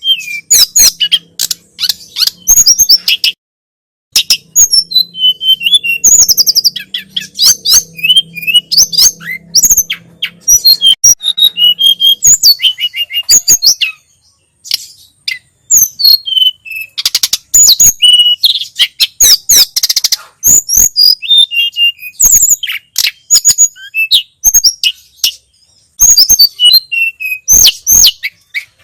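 Tledekan gunung (sulingan gunung) songbird singing a rapid run of high chirps and short whistled phrases, broken by brief pauses about a third of the way in, halfway through and near the end.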